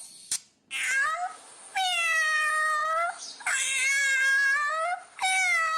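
A domestic cat meowing four times, the first meow short and the other three long and drawn out.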